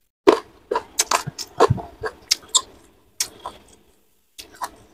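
Close-miked chewing of a mouthful of fried fish and rice: a quick run of wet mouth clicks and smacks, pausing briefly about three and a half seconds in, then a few more.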